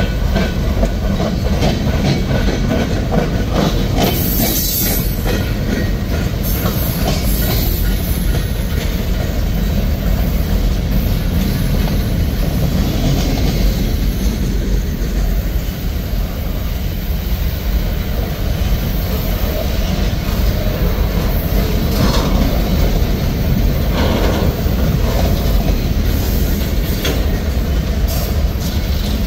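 Freight cars of a passing CSX manifest train rolling by: a steady rumble and clatter of steel wheels over the rails, with a brief high wheel squeal about four seconds in.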